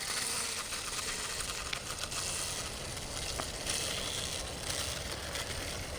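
Steady rustling and crackling of dry leaves and dirt on a wooded trail.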